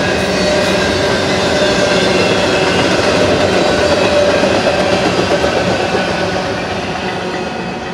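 Double-stack intermodal freight cars rolling past on steel wheels: a steady rumble and clatter of wheels on rail, with thin squealing tones from the wheels. It fades over the last couple of seconds as the end of the train goes by.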